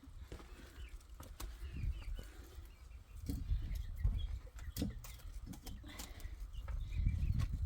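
Small birds chirping, with scattered sharp clicks and knocks over a low rumble.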